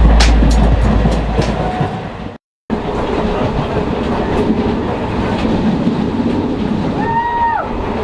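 Background music with a heavy bass ends in an abrupt cut about two and a half seconds in. After the cut, a passenger train runs steadily along the track, with a short high note sounding briefly near the end.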